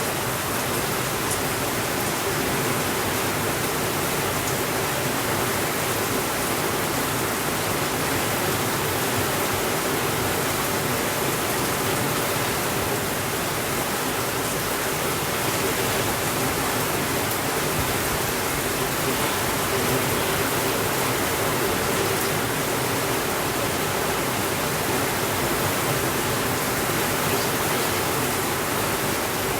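Steady rainfall, an even, constant hiss with no thunder.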